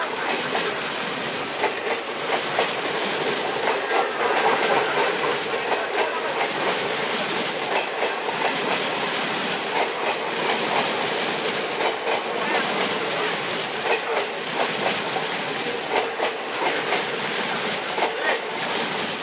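Coaches of an Indian Railways passenger train rolling past on the adjacent track at close range: a steady rumble with the clickety-clack of wheels over rail joints.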